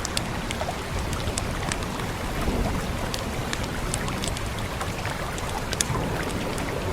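Steady rain with the scattered sharp crackles of a fire, over a low rumble.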